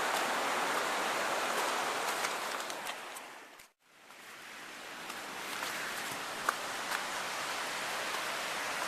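Steady rushing of a rain-swollen stream, fading out to a brief silence a little under four seconds in and fading back in, with a couple of faint clicks later on.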